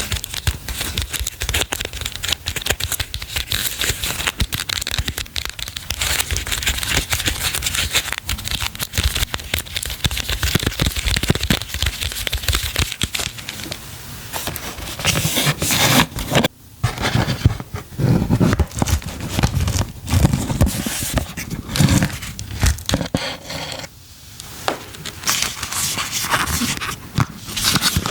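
Packaging being handled and opened close up: continuous crinkling and crackling with small tearing sounds, growing louder and more uneven about halfway through, with a brief pause a little later.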